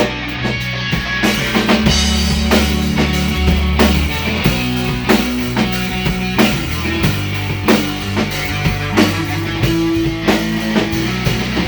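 Rock band playing an instrumental passage between vocal lines: drum kit keeping a steady beat under bass guitar and guitar, with a held guitar note about nine seconds in.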